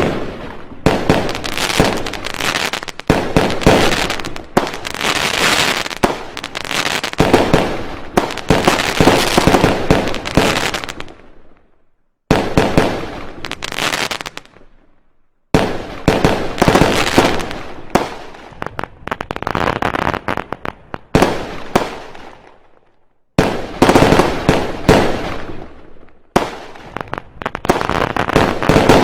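Fireworks and firecrackers going off in dense, rapid crackling volleys of bangs, in several separate runs broken by brief silent gaps.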